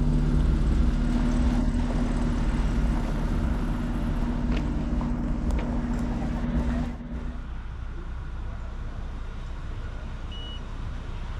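An engine running steadily with a low, even hum that stops abruptly about seven seconds in, leaving a steady outdoor hiss.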